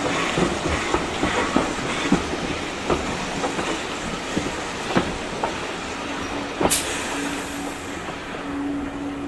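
Steam-hauled passenger train running on the rails, heard from on board: a steady rumble with wheels clicking irregularly over the rail joints. A faint steady hum comes and goes in the last few seconds, and there is one sharper click near the end.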